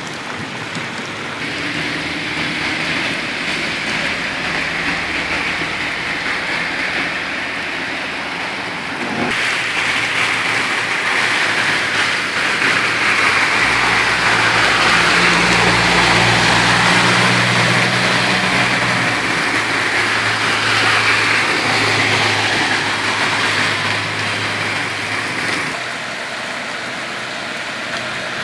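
Heavy rain falling on a flooded street with a steady hiss. From about a third of the way in, vehicles drive past through the standing water, their tyres swishing and an engine humming, loudest around the middle.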